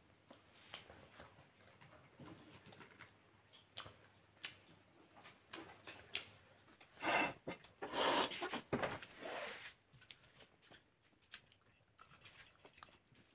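Eating sounds of fried chicken eaten by hand: chewing and mouth smacking with scattered small clicks, and two louder noisy stretches a little past the middle.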